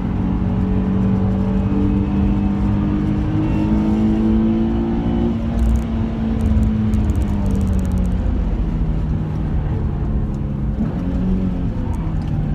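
Nissan 350Z's 3.5-litre V6 heard from inside the cabin at track speed, over heavy road and tyre rumble. The engine note climbs steadily for the first five seconds, drops away about halfway, holds lower, then begins to climb again near the end.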